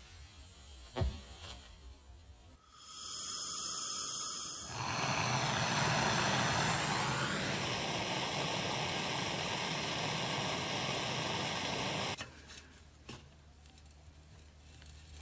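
A workshop machine or power tool running. After a click and a knock, it starts with a steady whine, then runs louder and rougher for about seven seconds, its pitch dropping slightly, and stops abruptly.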